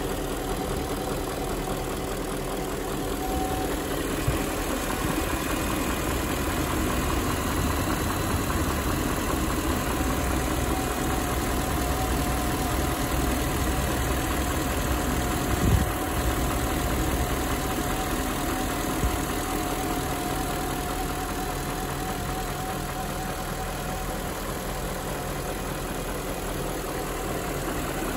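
BMW E38 740i's 4.4-litre V8 idling steadily as it warms up after a cold start. A few short knocks sound over it, the loudest about halfway through.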